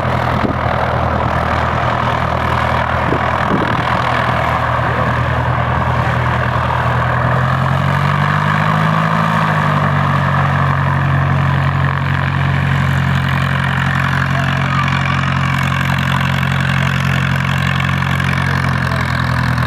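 De Havilland Chipmunk's four-cylinder Gipsy Major piston engine idling steadily, with its propeller turning. About eight seconds in, the revs rise briefly, then settle back to a steady idle.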